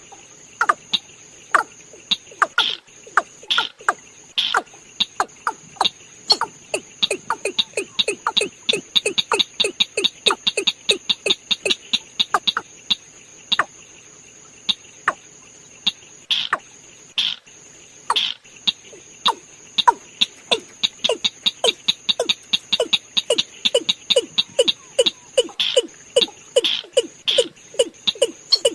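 Watercock calling: a long run of short, low notes repeated a few times a second, with a steady high-pitched insect trill behind.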